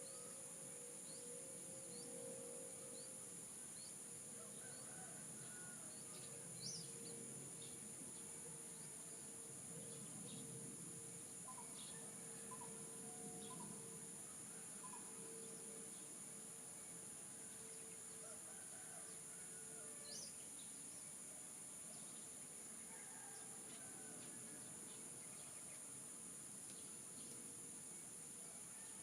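Nature ambience: a steady high-pitched insect chorus with scattered short bird chirps and calls. A low sustained tone sounds underneath and fades out about two-thirds of the way through.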